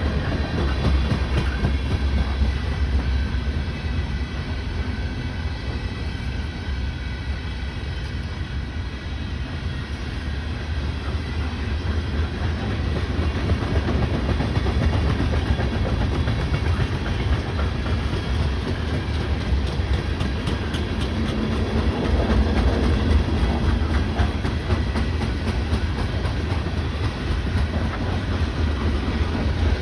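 BNSF freight train rolling past, a steady low rumble with the clickety-clack of its wheels over the rail joints.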